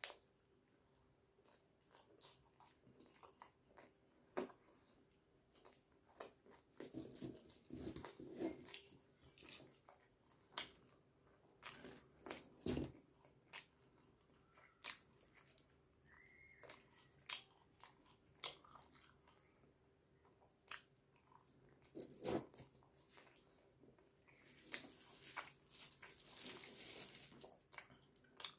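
Close-up chewing and wet mouth sounds of a person eating naan dipped in butter chicken gravy by hand, with irregular smacks and clicks. The chewing comes in denser, louder spells about a quarter of the way in and again near the end.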